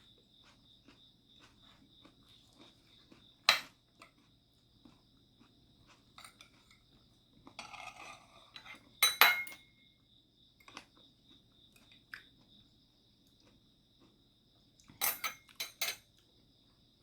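Cutlery clinking against dishes while eating rice: one sharp clink about three and a half seconds in, a louder cluster a little past halfway, and several quick clinks near the end.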